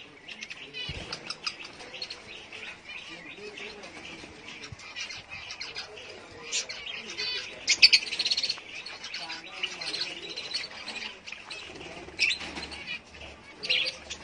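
A flock of small birds chirping and twittering, many calls overlapping, with a loud burst of chirps about eight seconds in.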